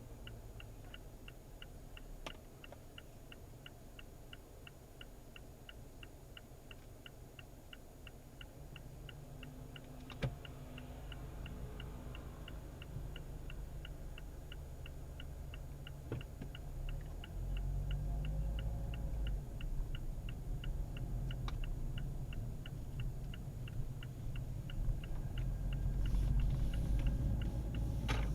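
A regular, light ticking noise of about two and a half ticks a second, the abnormal noise in question, over a low rumble that grows louder from about two-thirds of the way in. A few single louder clicks stand out.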